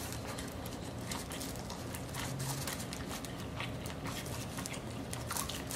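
Close-miked chewing of food: faint, scattered wet mouth clicks over a low steady hum.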